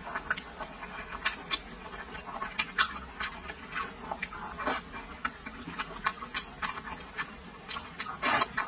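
Close-miked chewing of soft braised food, with many irregular wet smacks and clicks of lips and mouth. A louder slurping bite comes about 4.7 s in, and another near the end as a new piece goes into the mouth.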